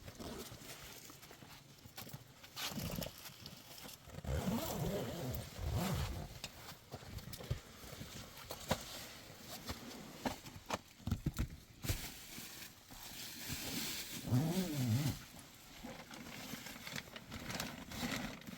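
Livestock calling: drawn-out calls that bend in pitch, heard about four seconds in and again near the end, with scattered clicks and knocks in between.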